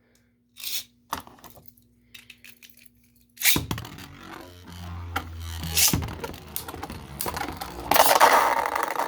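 Beyblade spinning tops launched with a sudden rip about three and a half seconds in, then spinning and scraping against each other and the plastic stadium with rapid clicking hits. The clash grows louder near the end.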